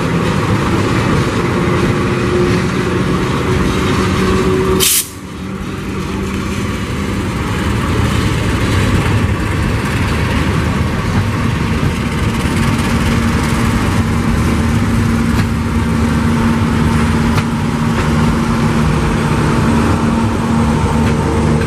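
KAI CC206 diesel-electric locomotive and its train rolling past close by: steady engine tone mixed with the rumble of wheels on the rails. It breaks off abruptly about five seconds in, then builds back as the passenger coaches run past on the near track.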